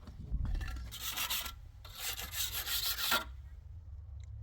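Two long rasping strokes of a hand tool scraping or sawing, the second longer than the first, then a pause near the end.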